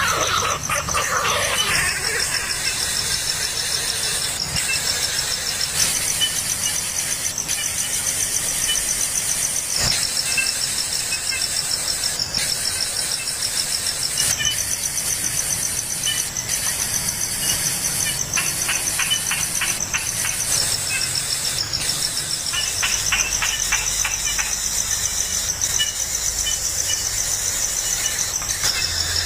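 Insects trilling: a shrill, rapidly pulsing high trill, steady throughout, with short runs of quick ticking in the middle.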